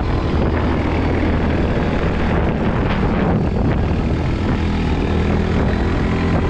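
Quad bike engine running at a steady speed, an even low drone with no break.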